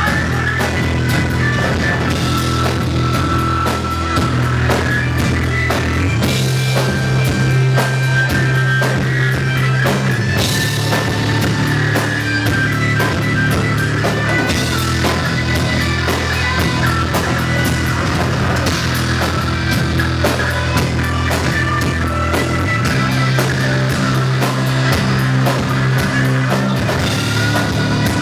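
Rock band playing live, loud and continuous, with a driving drum kit and guitars over a sustained bass line.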